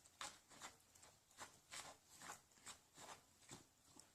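A dog's paws scraping as it wipes its feet on a mat. The faint, rhythmic scratching comes at about two or three strokes a second.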